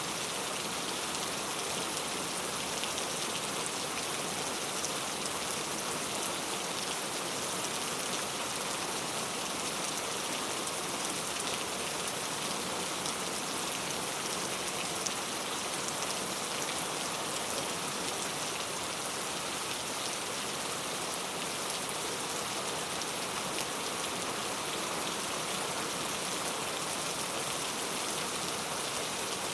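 Heavy rain falling steadily, a dense even hiss of drops striking hard surfaces with fine patter throughout.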